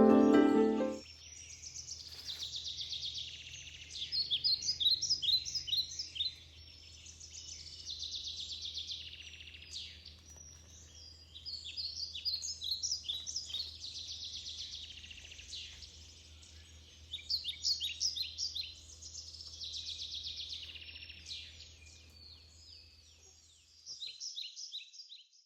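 Small birds chirping and trilling in repeated bursts of quick notes, over a faint steady low hum that stops near the end.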